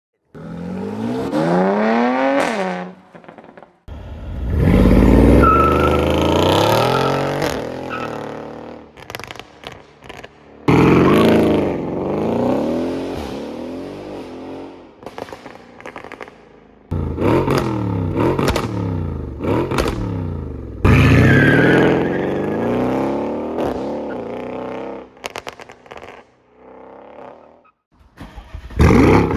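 Mercedes-AMG CLS 63 V8 revving and accelerating in a series of edited clips: each one starts abruptly, its engine note climbing in pitch and then falling away, about five times over.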